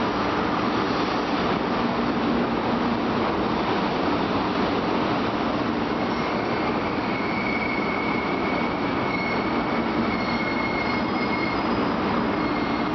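Tokaido Shinkansen bullet train running along the station platform, a steady, loud rail rumble. A thin high whine comes in about halfway through and fades near the end.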